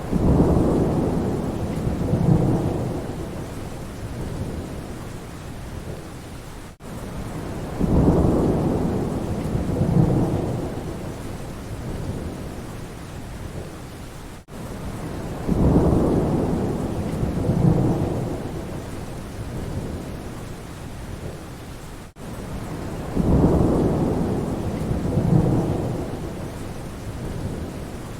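Steady rain with low rolls of thunder, two rumbles about two seconds apart, each swelling and fading. The same few seconds repeat about every eight seconds, with a brief cut at each repeat, as a looped recording.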